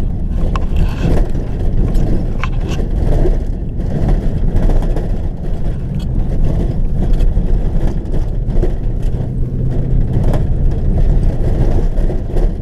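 Vehicle driving: a steady low engine and road rumble with a few light rattles and clicks.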